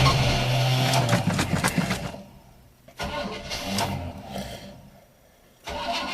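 A 1979 Chevrolet Caprice's V8 is being started cold after sitting for years, over and over. Three times it cranks and fires, then fades out within a second or two, with short quiet gaps between the tries.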